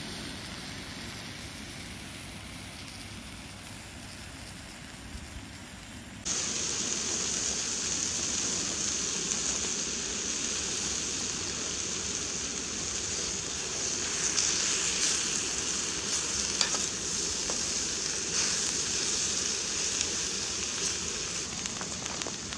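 Vegetables (courgettes, peppers, onions, mushrooms, tomatoes) sizzling steadily in a frying pan on a small camping gas stove, with scattered crackles. The sizzle is quieter at first and steps up suddenly to a louder, brighter hiss about six seconds in.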